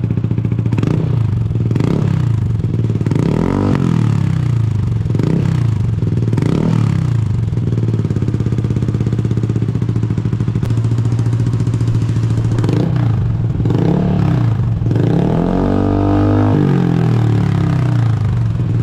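Motorcycle engine idling through an aftermarket exhaust and blipped repeatedly, each rev rising and falling quickly, with a longer rev near the end.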